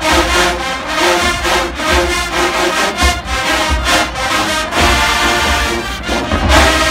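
College marching band playing loud brass music, with repeated heavy low drum hits under the horns.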